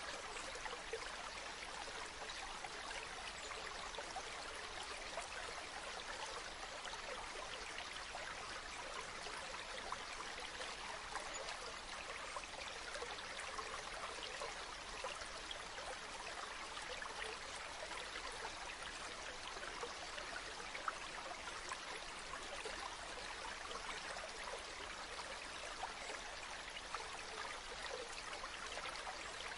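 Running water rushing steadily, a continuous splashing hiss with little deep rumble.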